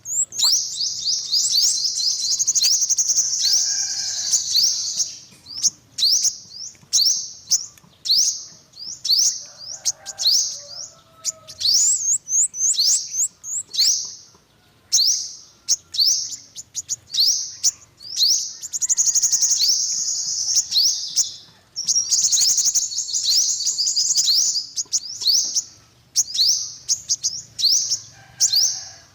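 Yellow-bellied sunbird calling: high, thin chirps, mostly single quick down-slurred notes about a second apart, broken twice by rapid chattering trills lasting a few seconds each.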